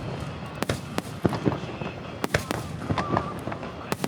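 Aerial fireworks bursting, a run of sharp bangs and crackles at uneven intervals.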